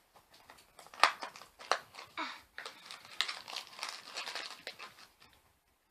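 Plastic toy packaging crinkling and rustling as it is handled and pulled open, with irregular sharp crackles, dying away near the end.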